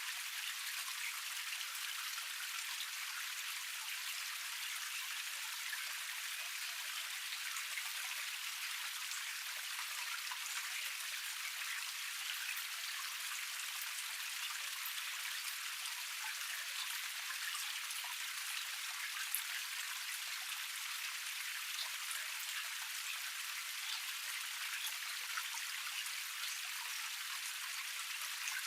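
Water of a small waterfall cascade splashing and trickling steadily over rocks: a dense, even patter of droplets, mostly high and thin with little low rumble.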